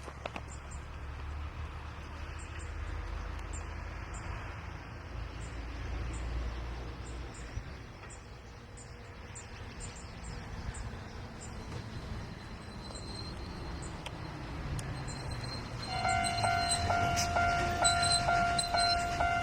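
Diesel shunting locomotive and freight wagons running slowly on the rails, with a low steady engine rumble. About three seconds from the end, a steady repeating ringing tone starts up over it.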